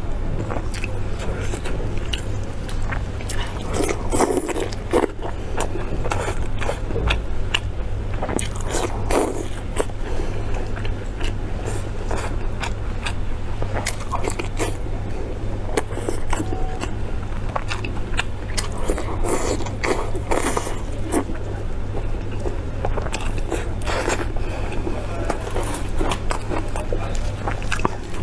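Close-miked eating sounds: chewing and biting food with many small wet clicks and crunches at an irregular pace, over a steady low hum.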